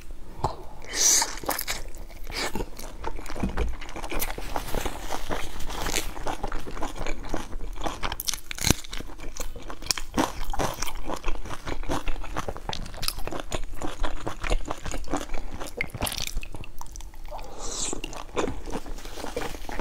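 A person biting into and chewing pan-fried dumplings: crunching and wet chewing sounds, dense and irregular throughout.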